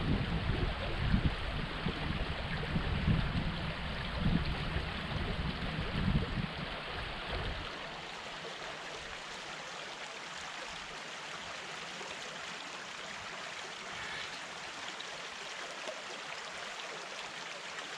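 Creek water flowing steadily over rocks. For the first seven or eight seconds a gusty low rumble of wind on the microphone lies under it, then cuts out, leaving only the running water.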